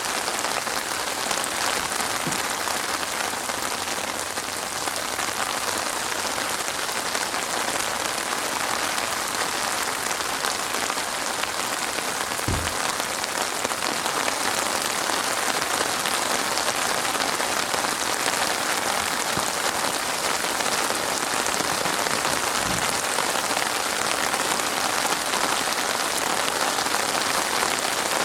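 Rain falling steadily, a dense even hiss of drops on a surface, with a couple of short low thumps about halfway through and near the end.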